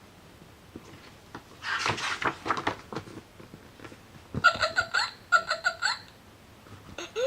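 Recorded animal sound effects from a children's Play-A-Sound book's small speaker. A scratchy, rustling burst comes about two seconds in, then a quick run of about six short chirping calls.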